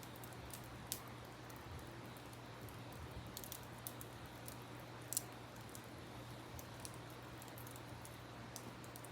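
Wood campfire crackling, with scattered sharp pops, the loudest about five seconds in, over the steady rush of a river.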